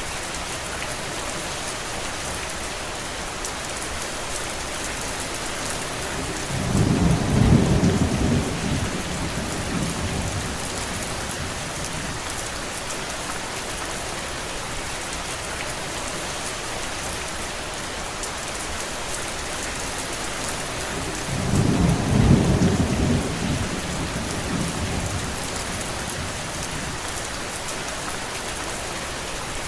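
Steady rain with two low rolls of thunder, one about seven seconds in and another about twenty-two seconds in, each swelling and dying away over a few seconds.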